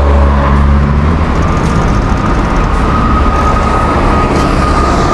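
A car's engine running close by, its low hum fading after about a second, then steady road and wind noise, with a faint steady high tone from about a second and a half in.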